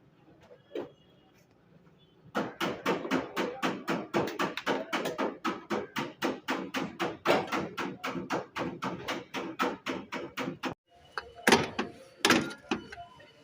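Hammer rapidly tapping the sheet metal of a car body panel, about four to five blows a second, in a steady run that stops abruptly, then a few single, louder blows: panel beating out dents.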